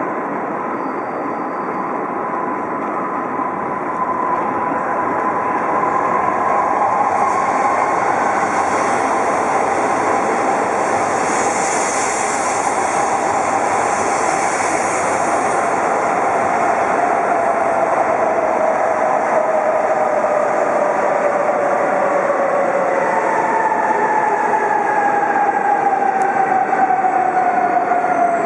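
Shinkansen train running into the station, with a loud rumble of wheels and air and motor whines that fall slowly in pitch as it slows.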